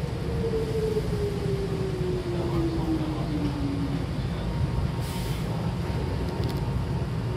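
Electric commuter train heard from inside the car as it slows for a station: the traction motor whine falls steadily in pitch and fades out about four seconds in, over a constant rumble of wheels on rail. A short hiss follows about five seconds in.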